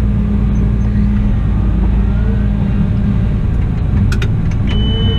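Cat 972M XE wheel loader's diesel engine running steadily, its pitch shifting slightly about a second and a half in. A few sharp clicks come near the end, followed by a short high beep.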